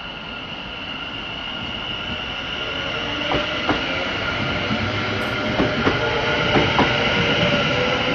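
Train running through the station and growing louder, with a steady high whine over a rising rumble. From a few seconds in, its wheels click sharply over the rail joints, more and more often toward the end.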